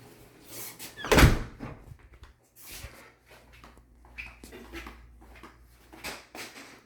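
An interior door shutting with a thud about a second in, followed by a few faint knocks and clicks.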